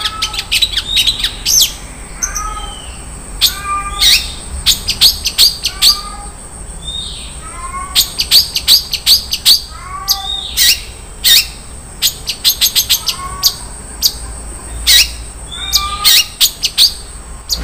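Long-tailed shrike (cendet) singing a fast, varied song of sharp, piercing high notes and chirps. Repeated lower slurred phrases come about once a second, typical of the mimicked filler songs a cendet strings together. A faint steady high whine runs underneath.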